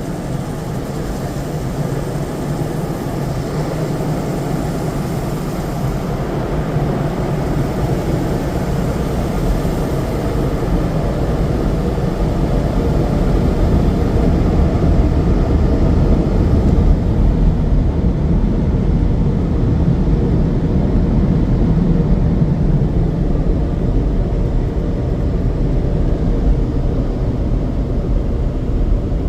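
Automatic tunnel car wash equipment running: a steady rushing noise with a deep rumble, growing louder over the first half and then holding level.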